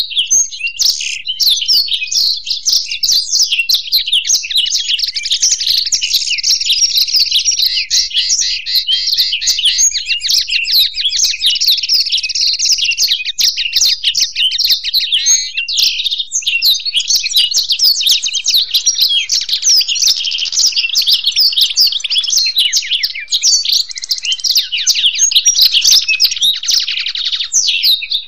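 Black-throated canary and European goldfinch singing together: a continuous, fast twittering song of trills and chirps with no pauses.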